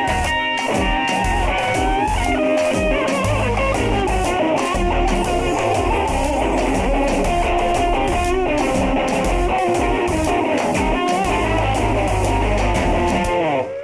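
Live band music led by guitar, playing an instrumental passage with a heavy bass line. The song stops abruptly near the end.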